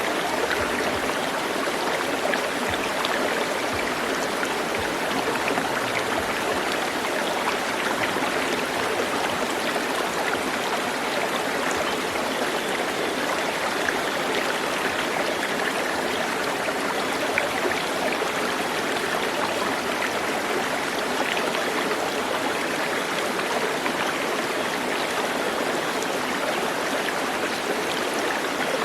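Running water, like a stream, flowing steadily with an even rushing hiss.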